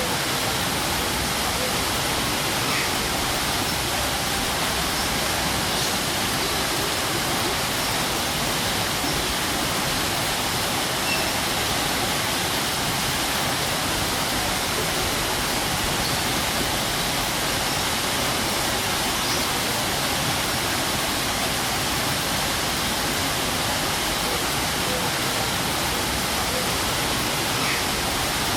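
Strong waterfall: water falling and rushing in a steady, unbroken roar.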